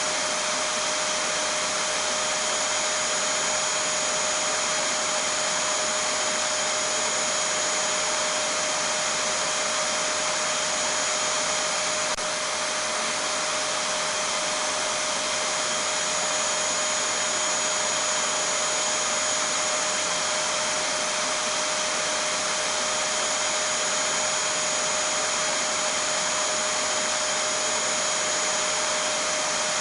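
Vacuum cleaner motor running steadily: an unchanging whine over an even rushing of air.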